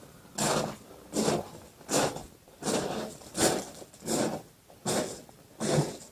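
Footsteps crunching on a stony footpath at a steady walking pace, about three steps every two seconds.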